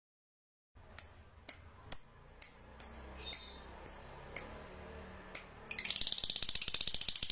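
Recorded bird calls used as masteran training audio: after a moment of silence, sharp high single notes about every half second, then a few seconds in a fast, continuous buzzing trill takes over.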